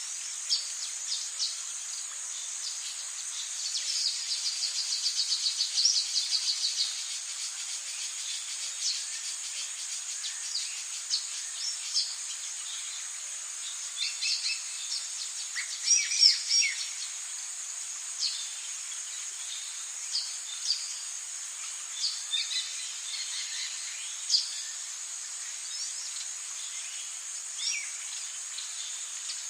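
Rainforest ambience: a steady high insect drone under scattered bird chirps and calls, with a rapid run of repeated notes a few seconds in and the loudest calls about halfway through.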